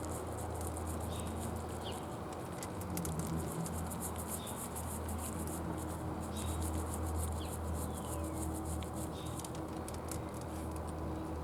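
A deer crunching bird seed: a rapid run of fine clicks. Short bird chirps come now and then over a steady low hum.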